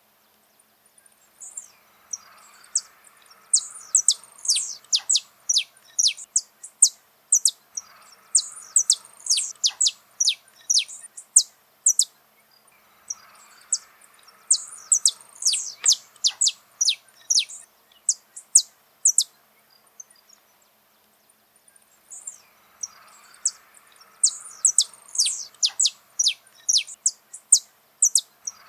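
Saffron finch singing: four long phrases of rapid, sharp chirps, each note sliding down in pitch, separated by brief pauses.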